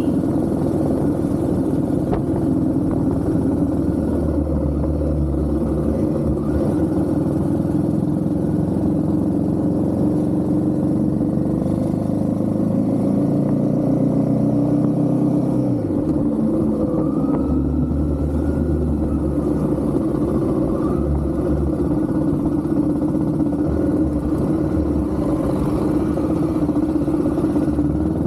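Royal Enfield Himalayan 450's single-cylinder engine running steadily while the motorcycle is ridden. About halfway through, the engine speed drops and then picks up again.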